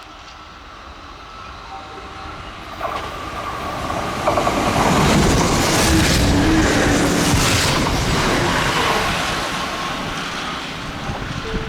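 Kintetsu electric train passing at speed. It is heard approaching from about two and a half seconds in, is loudest in the middle with a rush of wheel and rail noise, then recedes.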